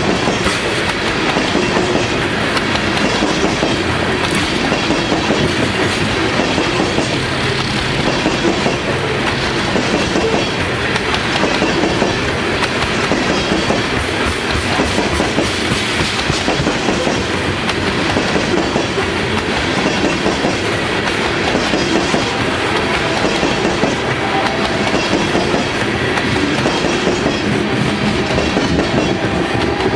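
Loaded coal cars of a long freight train rolling past, a steady loud noise of steel wheels running on the rails.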